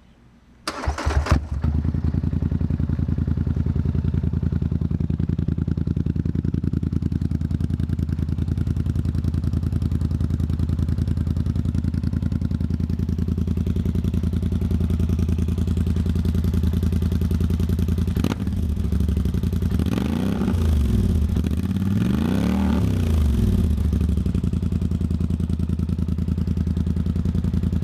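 Polaris Sportsman 1000 XP ATV's parallel-twin engine breathing through an RJWC dual slip-on exhaust: it starts about a second in and idles steadily. About two-thirds through it is revved up and back down twice, then it shuts off at the very end. It is running without a fuel tuner yet.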